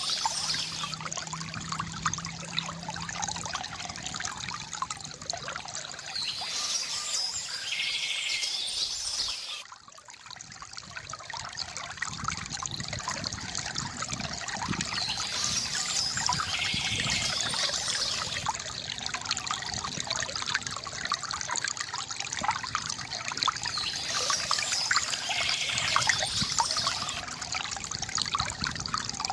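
Water trickling and splashing steadily from a bamboo fountain, with birds chirping now and then. The water briefly drops away about ten seconds in.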